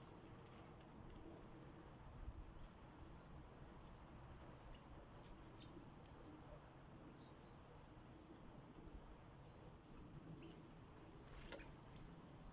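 Faint, scattered short chirps of small birds at a feeder, with a couple of sharp taps near the end.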